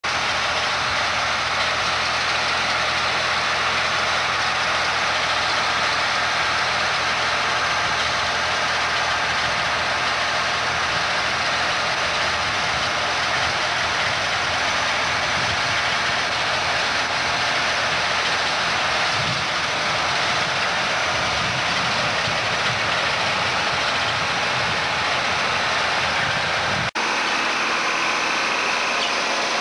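John Deere 4010 tractor's six-cylinder engine running steadily under load while pulling a potato harvester, mixed with the harvester's continuous mechanical noise. The sound drops out briefly and changes abruptly near the end.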